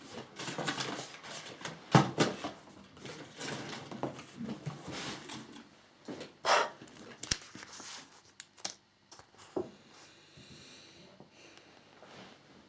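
Handling noise from model parts and their packaging: irregular rustling with sharp clicks and knocks, busiest in the first two-thirds, then a few scattered faint clicks.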